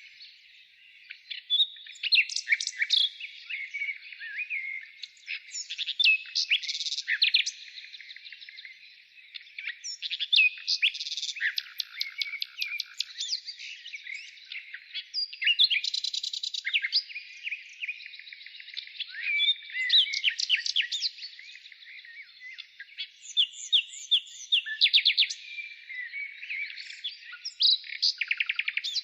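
Birds singing: quick runs of rapid, high chirping notes every few seconds over a continuous twittering chatter.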